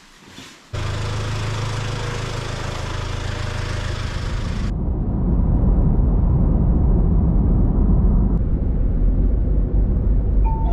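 Vehicle engine and road noise, a steady low hum that starts abruptly about a second in. About five seconds in the hiss drops away and a louder, rougher low rumble takes over.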